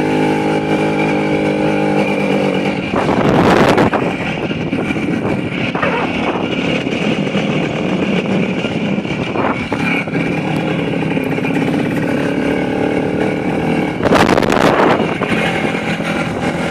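Voskhod 3M motorcycle's two-stroke single-cylinder engine running under way, its pitch shifting as the ride goes on. Two louder rushes of noise come through, about three seconds in and again near the end.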